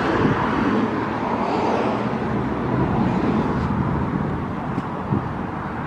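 Steady motor-vehicle noise, an engine running or traffic going by, with no sudden events.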